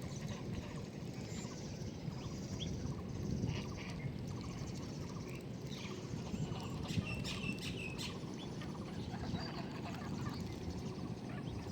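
Birds chirping and calling in short, scattered bursts over a steady low background rumble.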